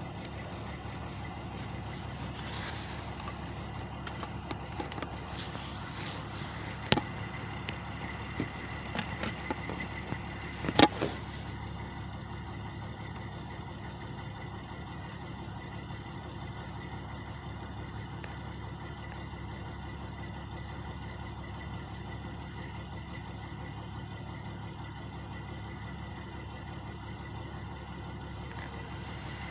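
Truck engines idling: a steady low rumble. A few sharp knocks and short hisses come in the first half.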